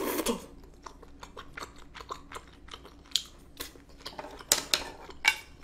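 A person chewing and slurping creamy carbonara noodles close to a microphone: a short slurp at the start, then a run of wet mouth clicks and smacks, with a few louder ones past the middle and near the end.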